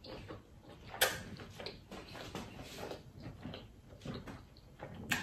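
Close-miked chewing of a big mouthful of lobster tail meat, a run of small mouth clicks and smacks with a sharper click about a second in.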